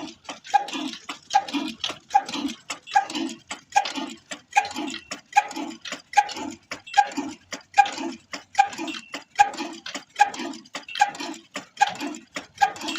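Old Ruston stationary engine of a tubewell pump running steadily, a regular chug about one and a half beats a second, each beat opening with a sharp click.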